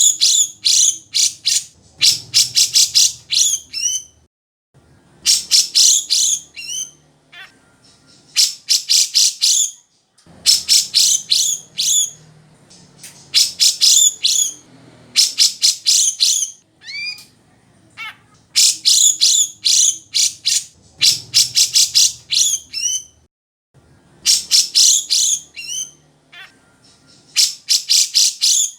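Grey-cheeked bulbul (cucak jenggot) singing loudly: phrase after phrase of rapid, high, chattering notes, each phrase a second or two long with short pauses between.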